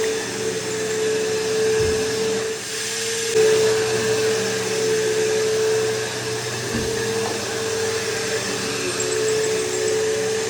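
Bissell PowerForce bagless upright vacuum running on carpet, a steady motor whine with airflow noise. The whine dips briefly about three seconds in, and two low thuds come at about two and seven seconds.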